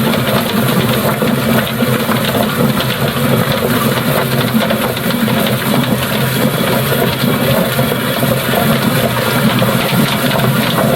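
Automatic chicken plucker running steadily, its motor spinning one scalded chicken inside the drum.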